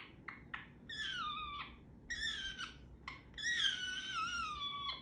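Pet parrot calling three times, each call pitched and sliding downward. The last call is the longest and loudest, about a second and a half, and wavers in pitch. A few faint clicks come just before the calls.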